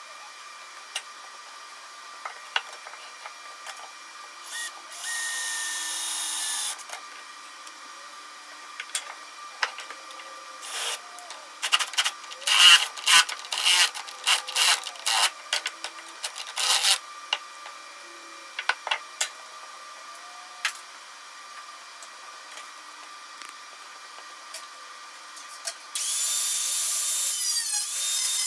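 Workshop handling and tool sounds: scattered clicks and knocks, with a dense run of clattering knocks in the middle. A power tool runs for about two seconds around five seconds in, and a power tool starts up and runs steadily near the end.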